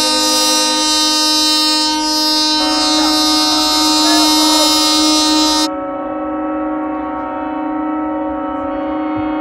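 Several ship horns sounding long, steady blasts together as a chord. The chord shifts about two and a half seconds in, and a few seconds later the sound turns suddenly duller and quieter.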